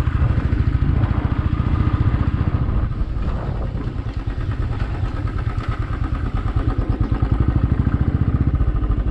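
Motorcycle engine running with rapid, even firing pulses, heard from on the bike. It eases off and gets quieter about three seconds in, then picks up again a few seconds later.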